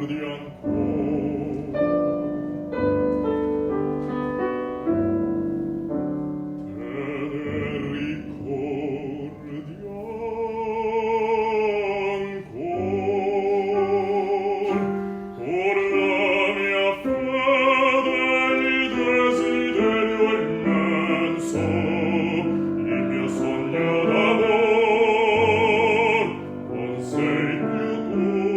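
Recording of a bass singing a classical art song in operatic style with piano accompaniment, the voice held in long notes with vibrato.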